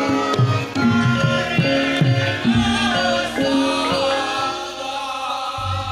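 Javanese gamelan music for a mask dance: hand-drum strokes over ringing metallophone notes. The drumming thins out about halfway through, leaving the held pitched tones.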